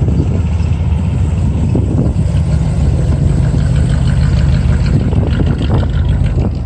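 A loud car engine idling, its deep steady rumble carrying heavy low-end pulsing.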